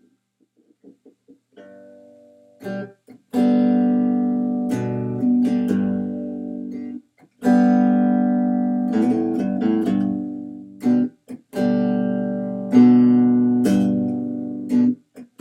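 Acoustic guitar introduction to a song: a few soft plucked notes, then strummed chords from about three seconds in, each ringing out and dying away before the next strum.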